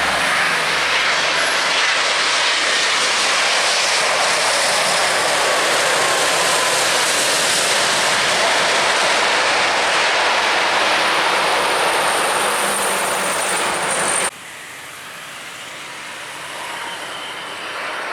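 Jet airliner engines, a loud steady rush with a faint high whine, as an aircraft passes close. About fourteen seconds in the sound drops suddenly to a quieter jet noise that swells again near the end.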